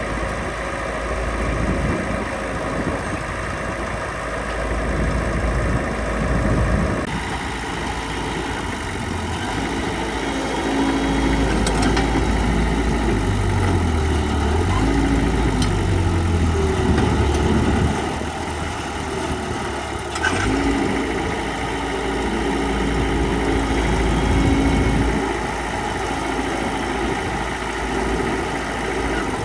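Heavy earthmoving machine's diesel engine running, mostly steady with its note rising and falling under load; the sound changes abruptly about a quarter of the way through.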